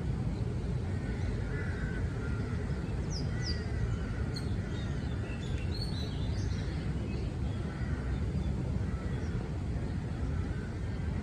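Park birds chirping and calling in scattered short phrases, busiest in the middle, over a steady low rumble.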